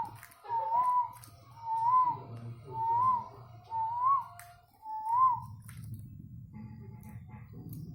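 Zebra dove (perkutut) giving a series of six short whistled coos near the same pitch, about one a second, each rising and falling slightly, then stopping. A low hum runs underneath.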